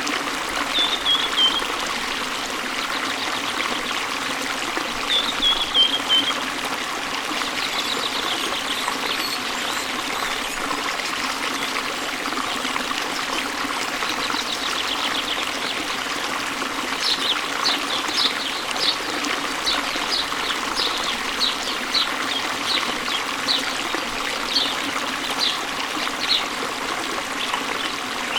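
Waterfall and stream water rushing steadily, with birds chirping over it. Two short falling chirps come in the first few seconds, and a run of short high notes about one a second follows in the second half.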